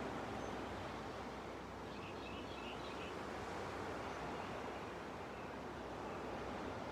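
Ocean waves washing steadily onto a beach, with a few brief bird chirps about two to three seconds in.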